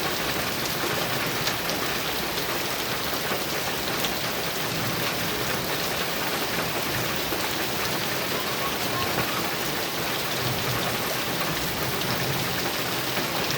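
Heavy rain falling steadily on a metal roof, an even, unbroken downpour.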